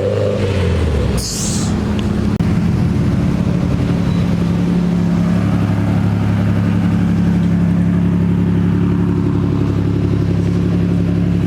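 Car engine running at a steady cruising speed, heard from inside the cabin while driving: a steady low drone with road noise. A short hiss comes about a second in.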